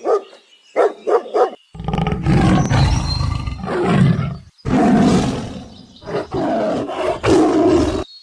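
A dog barks a few short times, then a large animal gives two long, deep, rasping roars, each lasting about three seconds, with a brief break between them.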